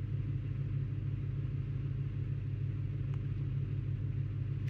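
Ford 4.6 litre two-valve V8 idling steadily with an even low hum and no stumble. It is not misfiring at the moment, though it had set a cylinder 6 misfire code.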